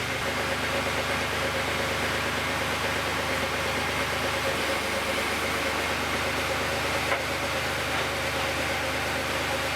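Backhoe engine running steadily, with a single short click about seven seconds in.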